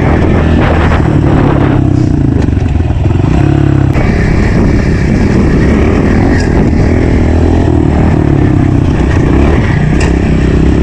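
Honda CRF125 pit bike's single-cylinder four-stroke engine running under throttle as it is ridden, its pitch falling and rising as the rider backs off and gets back on the gas.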